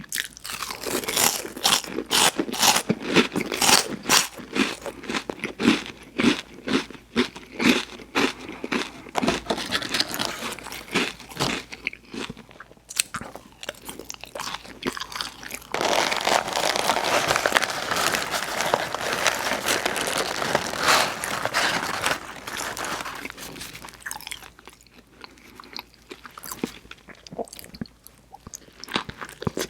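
Close-up mouth sounds of someone eating burger and fries: a quick run of crisp crunches and bites, then a denser stretch of continuous crunching and chewing about halfway through, easing to quieter, sparser chewing near the end.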